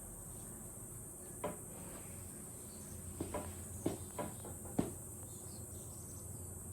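A steady high-pitched background drone, with about six faint, short knocks or taps clustered between about a second and a half and five seconds in.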